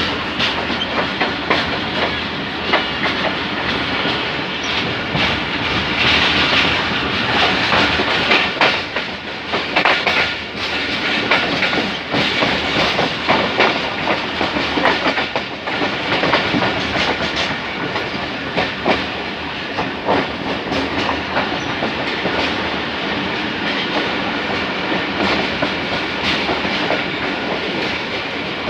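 Passenger train rolling slowly along the track, its steel wheels clattering over rail joints in a run of irregular clicks above a steady rumble and hiss.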